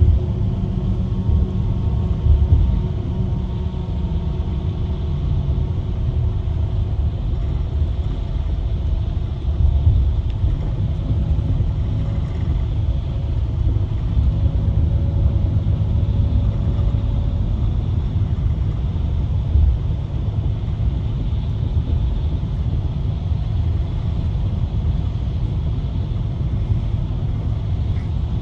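Irizar i8 Efficient coach on a Scania chassis cruising, heard from inside the passenger cabin: a steady low engine and road rumble with a faint hum above it.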